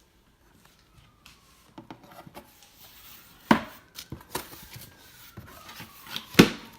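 Cookware utensils being unpacked from their packaging: rustling and clicking as it is handled, with two sharp knocks, one about three and a half seconds in and a louder one near the end.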